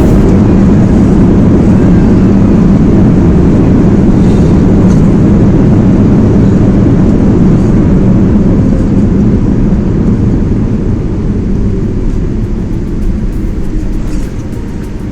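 Loud, steady low rumble of a Boeing 787-8 Dreamliner heard from inside the cabin, easing off over the last five seconds or so, as the airliner slows on its landing roll.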